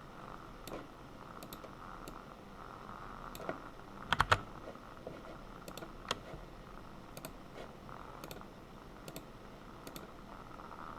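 Sparse clicks of a computer keyboard and mouse, roughly one a second, with a quick run of three louder clicks about four seconds in, over a faint steady hum.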